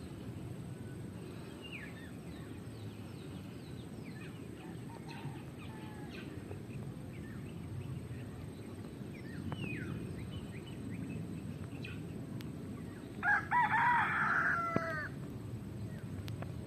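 A rooster crowing once, loudly, about thirteen seconds in and lasting nearly two seconds, over scattered faint bird chirps and a steady low rumble.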